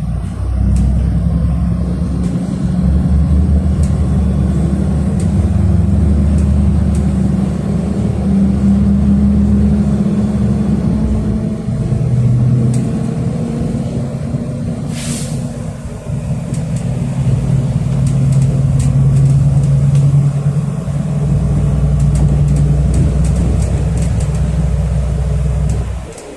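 City bus engine running under way, heard from inside the passenger cabin, its low drone shifting pitch a couple of times as the bus changes speed. A brief hiss about halfway through.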